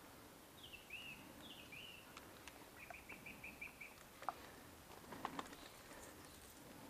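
A small bird calling faintly: two short down-slurred notes, then a quick run of about six notes. Two or three sharp clicks follow near the middle, the first the loudest.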